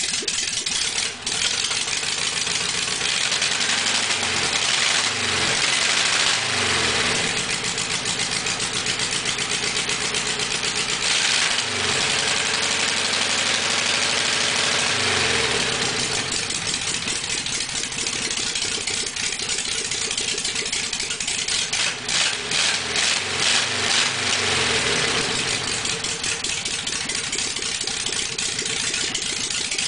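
Volkswagen 1600 air-cooled flat-four engine running steadily, revved up and dropping back several times. It is firing on fuel injection now that the injector resistor plug is reconnected.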